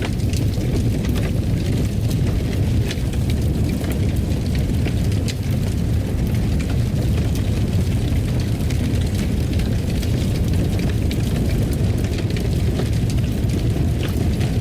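Fireplace fire burning: a steady low rumble with scattered crackles and pops.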